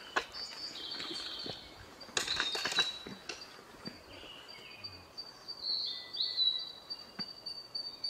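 Male Siberian blue robin singing: thin high introductory notes, then a short loud rattling phrase about two seconds in, and another run of thin high notes near the end.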